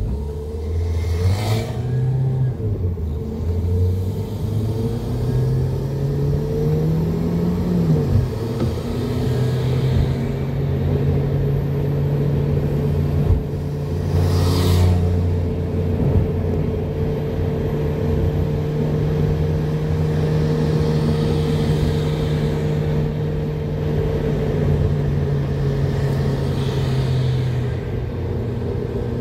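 Car engine heard from inside the cabin, pulling away from a standstill: the engine note climbs twice and drops at a gear change about eight seconds in, then holds steady while cruising, over a constant road rumble. Two brief knocks are heard, one near the start and one about halfway.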